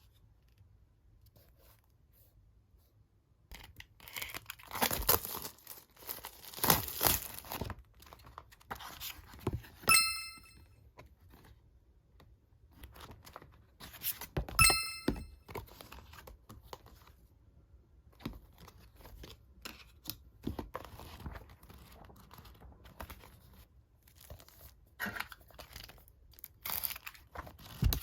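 Parcel packaging being torn open and plastic wrapping crinkling, in irregular bursts. Twice, about 10 and 15 seconds in, a short ringing tone cuts in.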